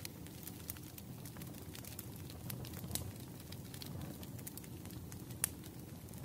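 Wood fire crackling in a fireplace: a steady low rumble with scattered small pops, a sharper pop about three seconds in and the loudest one near the end.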